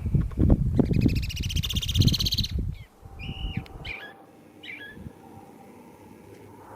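Birds calling: a fast run of high, rising notes, then a few short single chirps. A loud, rough low rumble runs under the first half and stops sharply.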